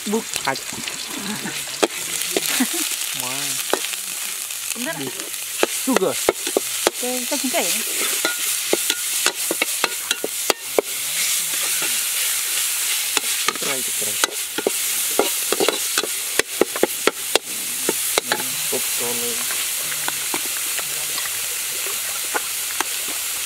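Yellow spice paste sizzling in hot oil in a steel wok, stirred and scraped with a metal spatula: a steady frying hiss broken by frequent sharp scrapes and taps of the spatula on the wok, which thin out in the last few seconds.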